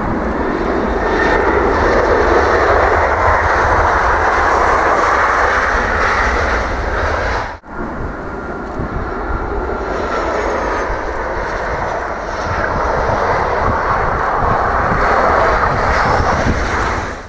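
Jet airliner engines running loud with a deep rumble, as a plane passes on the runway. The sound breaks off abruptly about seven and a half seconds in and picks up again at once, with a faint whistling whine over the noise in the second half.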